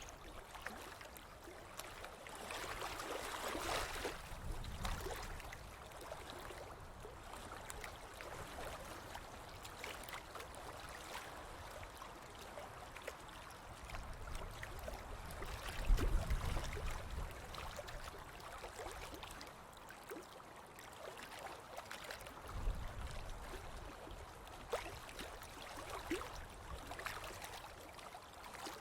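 Ocean waves washing onto a beach, the surf swelling and ebbing in slow surges, with a stronger surge and low rumble about halfway through.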